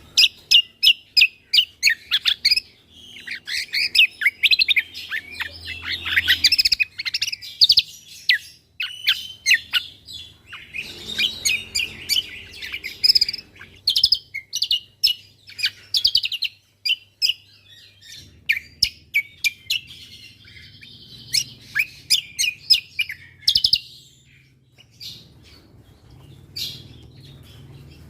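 A cucak kombo (Javan grey-throated white-eye) singing a rapid chatter of sharp chips and trills. It comes in spells of dense notes with short breaks, turning sparser and quieter near the end.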